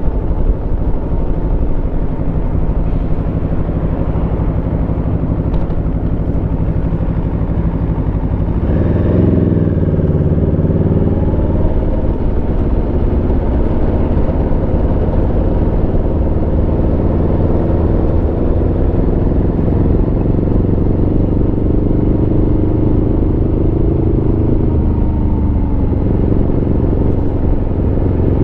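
Aprilia Tuono V4 motorcycle's V4 engine running under way on the road. About a third of the way in the engine note jumps up sharply on the throttle. It then climbs slowly in pitch as the bike accelerates, and dips briefly near the end.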